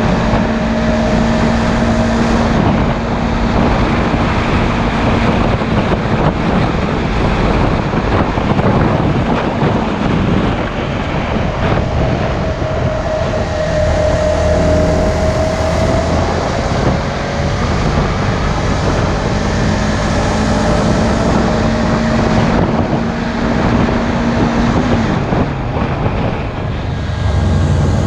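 Sport motorcycle riding at speed with heavy wind rush over the camera microphone. Under the wind, a steady engine note that shifts in pitch a few times.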